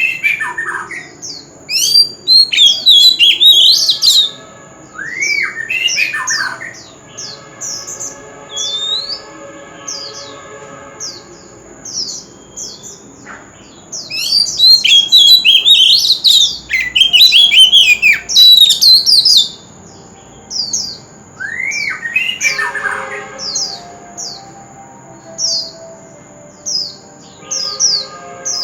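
Oriental magpie-robin singing: loud bursts of rich whistled and rasping phrases, alternating with runs of short, sharp descending notes about once a second, over a steady thin high tone.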